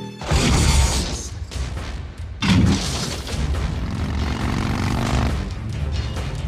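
Action-film soundtrack for a vehicle chase: a sudden loud boom of a crash or blast a moment in, a second heavy impact about two and a half seconds in, then continuing rumbling noise with music.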